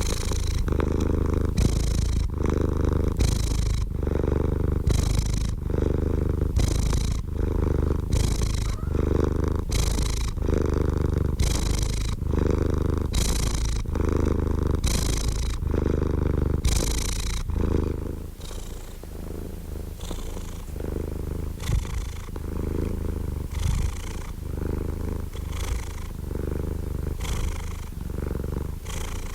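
Domestic cat purring close up, a steady low rumble that swells and fades with each breath, about once a second. It grows softer about two-thirds of the way through.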